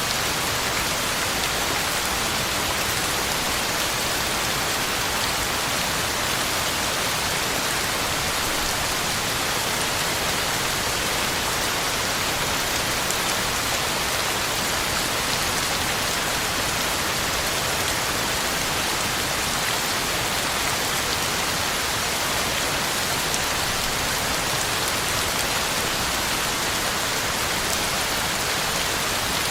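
Heavy rain falling steadily, a dense even hiss of drops on the ground and leaves.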